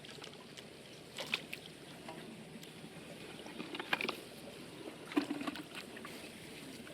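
Water sloshing and lapping, with a few short sharp splashes about a second in, around four seconds in and about five seconds in.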